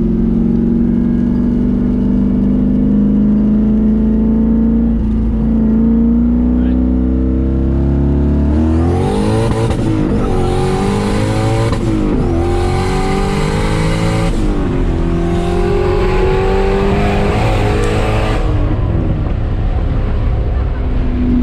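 Turbocharged LS1 V8 engine in a Camaro SS running steadily. From about nine seconds in it accelerates hard for about ten seconds, its revs climbing and falling back four times, with a loud hiss over it. Near the end it settles back to a steady run.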